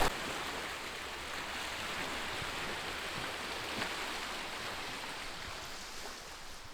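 Sea water washing against a rocky shore: a steady rushing hiss with no clear breaks.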